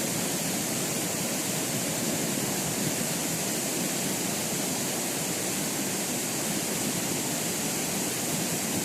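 Steady rushing of a large waterfall's falling water, an even hiss without a break.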